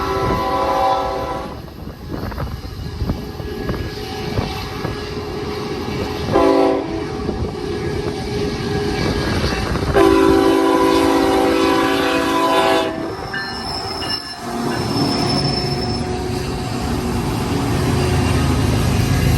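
Diesel freight locomotive's multi-note air horn sounding a long blast that ends about a second and a half in, a short blast near six and a half seconds, and a long blast from about ten to thirteen seconds. Under it runs the rumble of a heavy manifest freight train climbing the grade. Near the end the low drone of the diesel locomotives working hard grows louder.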